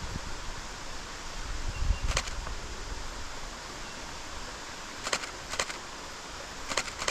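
Canon R7 shutter firing in single frames: one sharp click about two seconds in, then a few more over the last two seconds. A steady outdoor hiss lies underneath.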